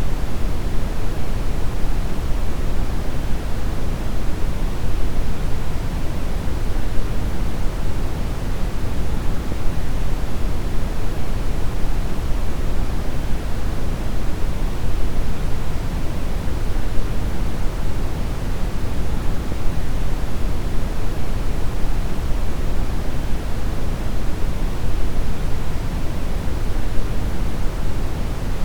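Synthetic brown noise: a steady, deep rushing hiss weighted toward the low end, with no change over time.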